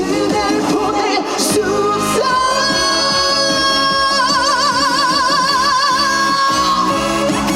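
Trot song performed live with a backing band track: a female singer sings a line that turns into one long held note with wide vibrato, ending about seven seconds in.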